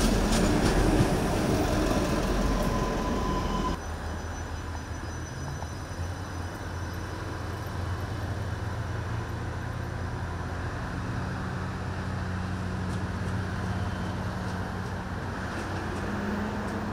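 An Adelaide Metro 3000-class diesel railcar passes close by with a loud rumble of wheels on the rails. About four seconds in this cuts off sharply to another 3000-class railcar at a platform, its diesel engine running with a steady low hum.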